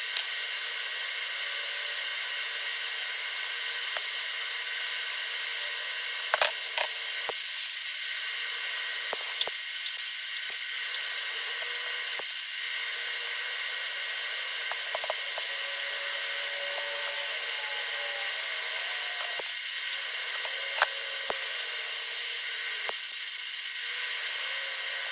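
TIG welding arc on a cast iron exhaust manifold, hissing steadily as mild steel ER70S2 filler rod is added, with a few sharp clicks scattered through.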